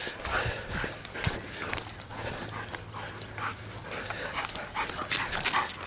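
A malamute and a husky trotting on leash over pavement: quick, irregular clicks and taps of paws and claws.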